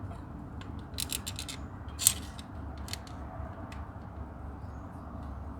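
A few light, sharp clicks and taps, the loudest about two seconds in, from the inspection camera probe being handled and worked into the engine's injector bore, over a low steady hum.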